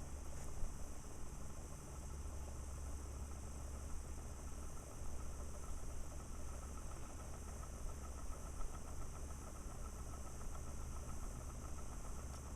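Scale model of a vertical hit-and-miss engine turned by a small battery-powered electric motor through a rubber band on the flywheel, running slowly with resistors in the circuit: a faint, steady hum with fine, even ticking from the mechanism.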